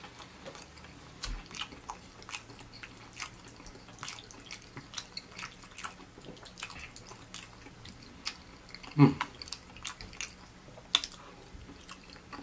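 Close-miked chewing of soft, cheesy macaroni: a steady run of wet mouth clicks and smacks. A brief low hum of the voice comes about nine seconds in.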